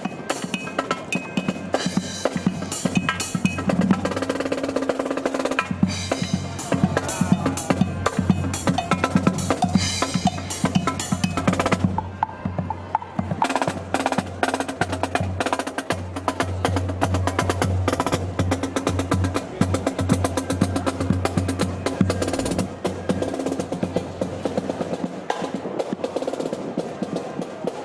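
Marching band playing live, with snare drum rolls and rapid drum beats to the fore and sustained low notes underneath.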